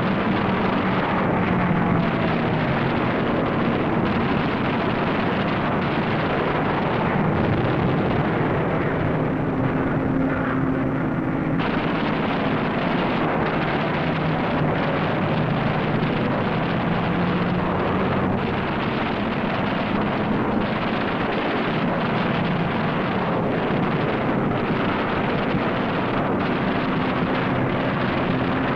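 Piston aircraft engines droning steadily with a dense, rough noise, their low pitch drifting slightly up and down, with a sudden change in the sound about twelve seconds in.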